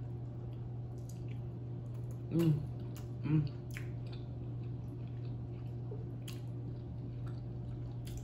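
A person chewing rotisserie chicken dipped in cheese sauce, close to the microphone: wet mouth sounds and scattered small clicks. Two brief hums of the voice come a couple of seconds in, and a steady low hum runs underneath.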